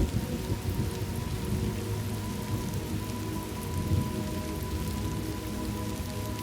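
Thunderstorm ambience: steady rain hissing, over a low rolling rumble of thunder that swells about four seconds in. A few faint steady tones sit underneath.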